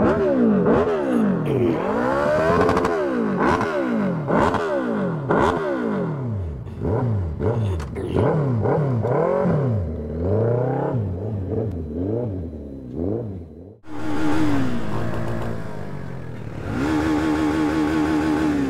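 Several motorcycle engines revved again and again, their pitches rising and falling and overlapping one another. The sound cuts out sharply for a moment about 14 seconds in, and then a single motorcycle engine idles steadily.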